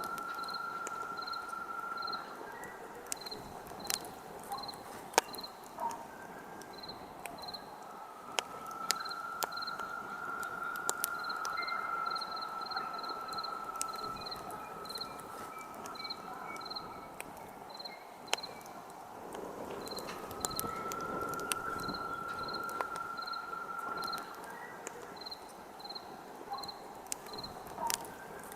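Wood campfire crackling, with scattered sharp pops, while a cricket chirps steadily a few times a second. A steady high tone comes and goes in three long stretches.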